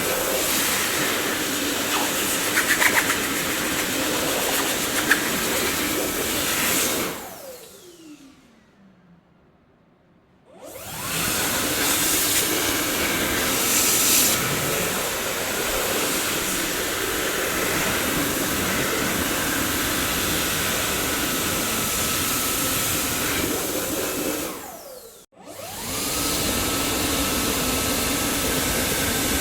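Dyson vacuum cleaner running steadily, then switched off about seven seconds in: its motor winds down with a falling whine to near silence. About three seconds later it is switched back on and whines up to speed, and near the end it cuts out for a moment and starts straight back up.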